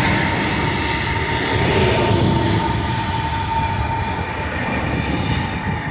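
Freight train of autorack cars rolling past, a steady rumble and hiss of steel wheels on the rails, with a thin steady squeal that fades out near the end.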